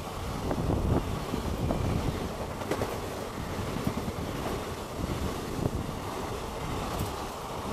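Passenger train coaches running past at speed close by: a steady rush of air and wheel-on-rail noise with a few sharp clicks.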